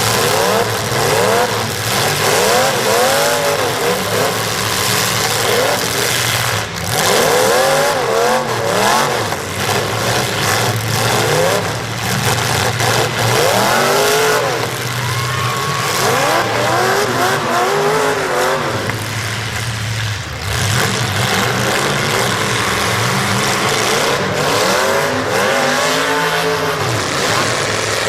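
Several demolition derby cars' engines revving up and down over and over, with a steady low engine drone beneath and now and then a sharp knock of a hit.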